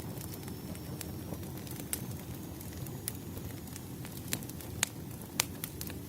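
Firewood fire burning with a steady low rumble and scattered sharp crackles and pops, the loudest two near the end.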